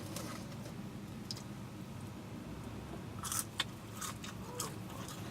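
A person biting into and chewing French fries: a few short, crisp crunches in the second half over a low steady hum.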